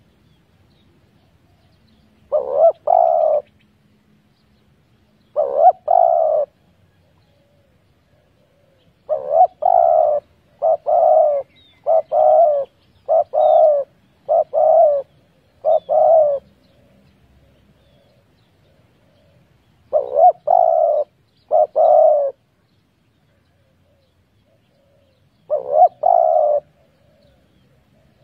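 Spotted dove cooing: short coo phrases repeated every few seconds, with a quick run of several in a row in the middle.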